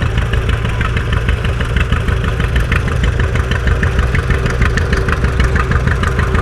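Old John Deere tractor's engine running steadily as it drives past, a low rumble with a fast, even beat.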